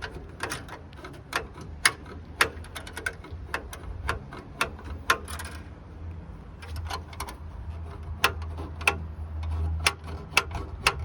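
Irregular sharp metallic clicks and taps, about two or three a second, as the temporary wire on a Rover P4's bonnet release latch is worked, over a low steady hum.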